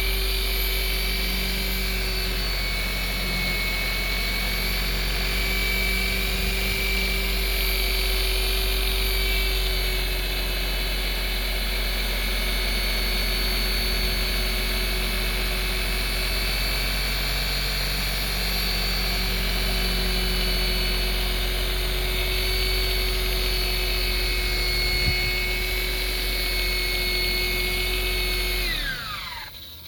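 DeWalt DWP849X rotary buffer running at a steady speed with its pad on boat gelcoat, compounding the surface. Near the end the motor is switched off and winds down quickly, its whine falling in pitch.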